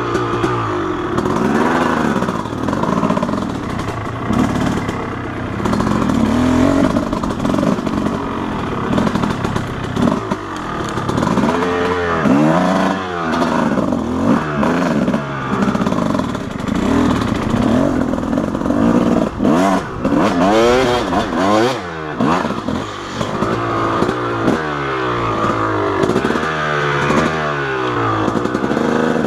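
Dirt bike engine revving up and down over and over as it is ridden, its pitch climbing and dropping with the throttle. A few knocks and clatter from the bike over rough ground.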